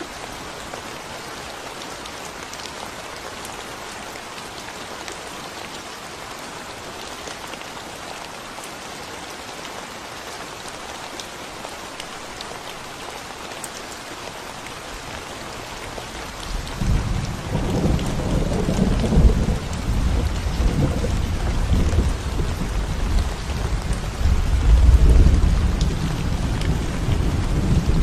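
Steady rain hissing down on a concrete road. A little over halfway through, a long, low rumble of thunder rolls in, growing louder and swelling in waves.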